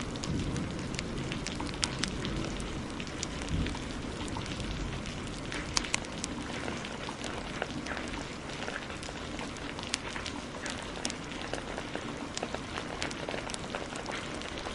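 Steady heavy rain mixed with a crackling wood fire: a constant hiss of rain with scattered sharp pops and snaps from the fire, a few of them louder.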